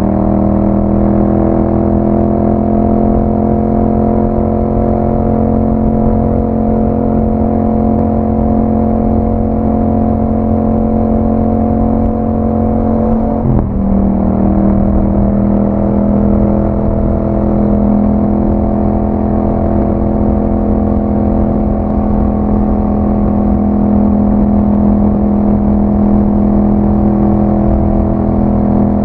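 Yamaha MT-07's 689 cc parallel-twin engine through an Akrapovic exhaust, running at a steady cruise under the rider. About halfway through the note breaks briefly for a gear change and comes back a little lower, then holds steady.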